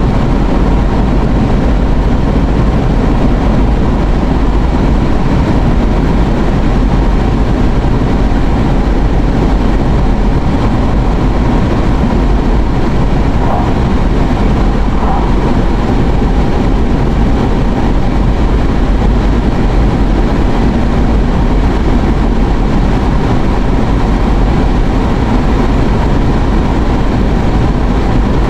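Steady engine and road noise inside a moving car's cabin, a constant low rumble with a hiss on top.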